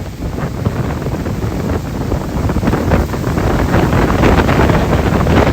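Strong storm wind gusting and buffeting the microphone with a heavy rumble, growing louder toward the end.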